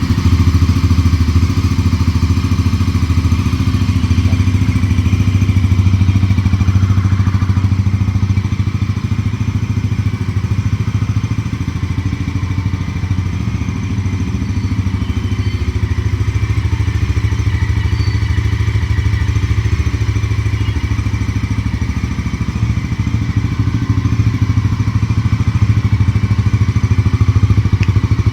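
Exhaust of a Bajaj Pulsar NS400Z's 373 cc single-cylinder engine running steadily without revving.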